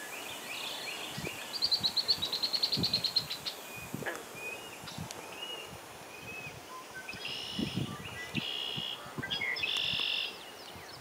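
Wild songbirds singing. About one and a half seconds in comes a fast trill of high repeated notes, the loudest part. In the last few seconds there are a few short buzzy calls, with scattered chirps between.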